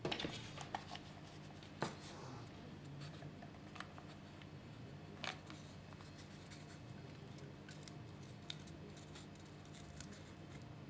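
Scissors snipping: a few separate sharp cuts, at the start, about two seconds in and past the middle, over a faint steady hum.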